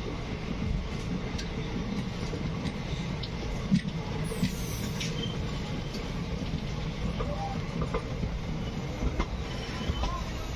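Express train running on the track, heard from aboard: a steady low rumble with scattered clicks and knocks from the wheels and coach, one sharper knock a little under four seconds in.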